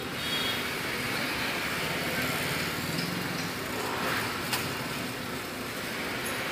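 Car engine idling steadily under an open bonnet while a mechanic works at the battery, which had failed and left the car stalling. A single sharp click about four and a half seconds in.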